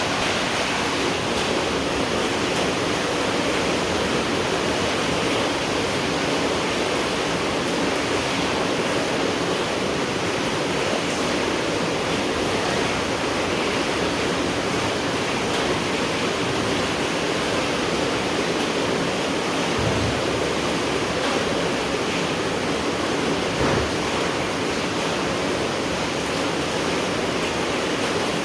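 Steady, even rain, a continuous hiss of falling rain with no let-up.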